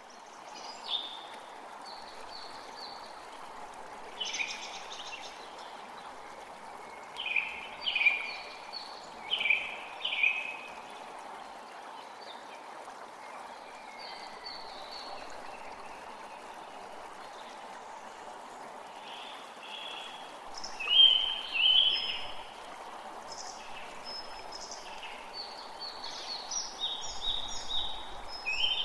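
A forest creek running steadily, with songbirds calling over it in short bursts of chirps, several times, the loudest a little past two-thirds of the way through.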